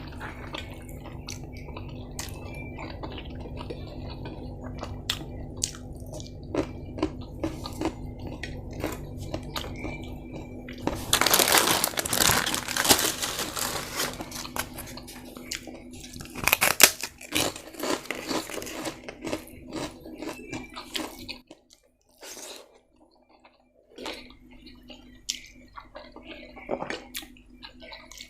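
Close-miked eating: crunchy food being bitten and chewed, with many small crackles and a loud, dense stretch of crunching about eleven seconds in. A steady low hum runs underneath and cuts off about two-thirds of the way through.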